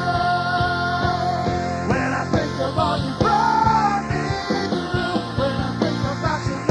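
Live worship band playing a rock-style worship song, with long held notes over a steady drum beat.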